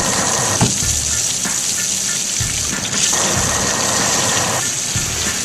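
A steady rushing water-spray sound effect over background music with a regular low beat.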